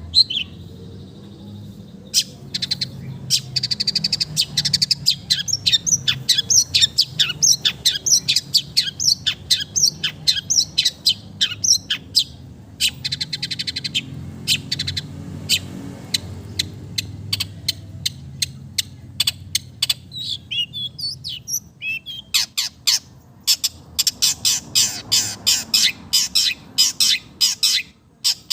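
Long-tailed shrike (cendet) singing a fast, varied song of sharp chirps and trills, a song that mimics other birds such as the sooty-headed bulbul (kutilang).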